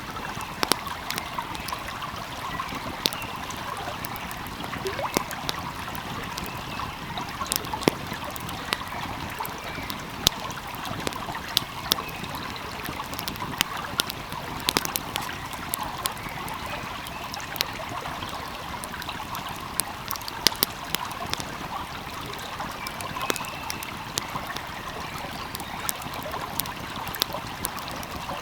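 Steady rush of a flowing stream, with a wood fire crackling over it in irregular sharp pops and snaps.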